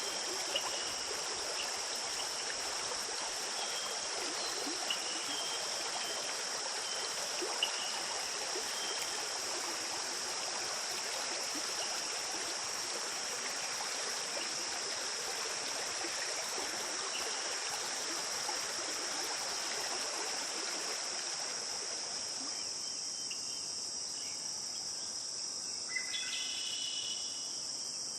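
Running stream water under a steady high chorus of crickets. About 22 seconds in the water noise drops away, leaving the cricket chorus and a few short high chirps.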